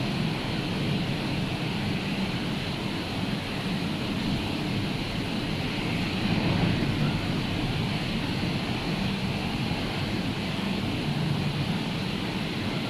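Rough, storm-churned sea surf: a steady, unbroken wash of waves with a hissing top and a low rumble, and no single wave standing out.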